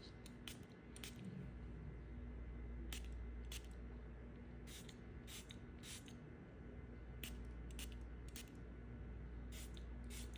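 Knife cutting a bar of soap: about a dozen short, crisp scraping cuts at uneven intervals.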